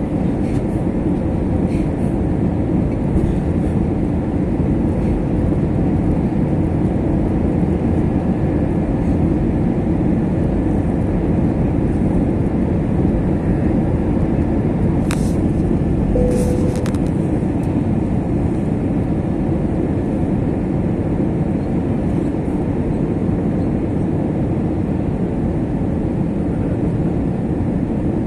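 Steady low rumble of an Airbus A321 airliner heard from inside the cabin: engine and airflow noise. Two brief clicks a little past the middle.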